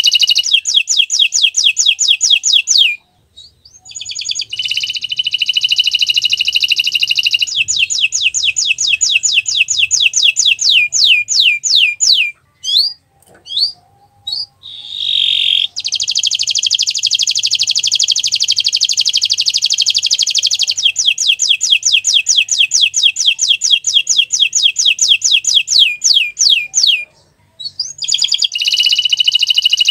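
Domestic canary singing long phrases of fast, high trills: rapid runs of repeated notes, some changing in speed and pitch, with short pauses about three seconds in, around the middle and near the end.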